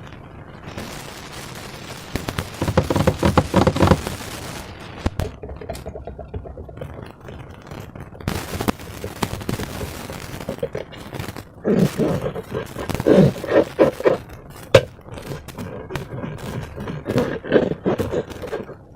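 Slime being squeezed and worked by hand, with rapid wet crackling and popping of trapped air. It swells into louder squelching clusters three times, with a sharp click in between.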